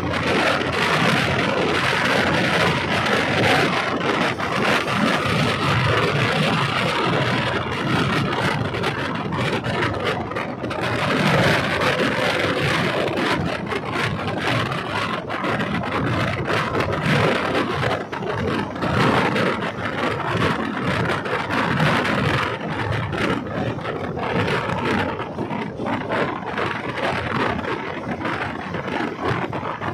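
A diesel multiple-unit train running along the track, heard from on board: steady running noise of wheels and wind with frequent clicks and rattles.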